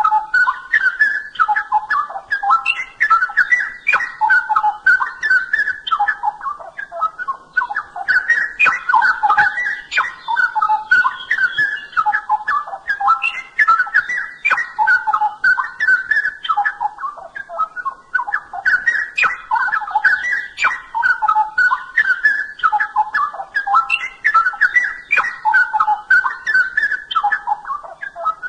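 Straw-headed bulbul (cucak rowo) singing in full voice: loud, rich, bubbling whistled phrases, one after another almost without a break.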